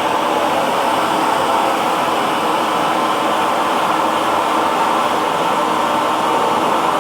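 Hair dryer running steadily: a constant, even whoosh of blown air and motor noise with no change in pitch or level.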